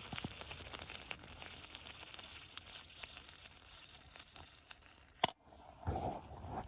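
Wood fire crackling with a faint sizzle, and one sharp snap about five seconds in.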